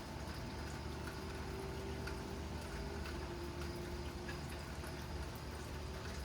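Steady rain falling during a thunderstorm, an even hiss with a faint steady hum underneath.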